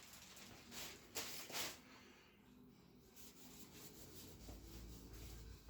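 Faint rubbing of a cloth wiping down a motorcycle's rear mudguard, three short strokes in the first two seconds, then little more than room tone.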